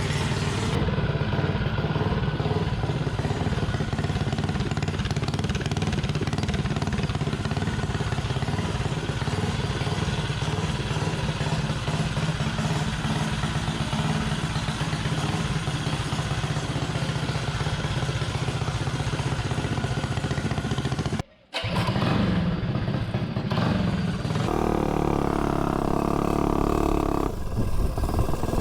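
Tillotson 225 single-cylinder engine on a Mega Moto 80/105 mini bike, fitted with a Fire 265 cam, running steadily while the bike is ridden. The sound drops out for an instant about 21 seconds in. For a few seconds near the end it settles to a steadier pitch.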